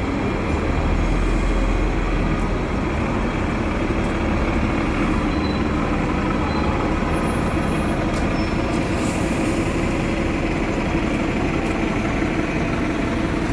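Busy road traffic with heavy vehicles passing: a steady rumble with a deep engine drone, strongest in the first couple of seconds.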